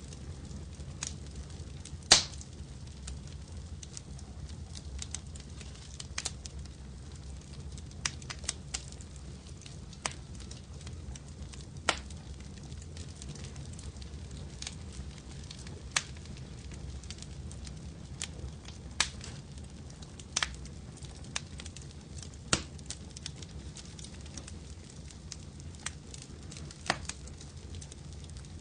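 Wood fire crackling, with irregular sharp pops and snaps over a steady low rumble of flame; the loudest pop comes about two seconds in.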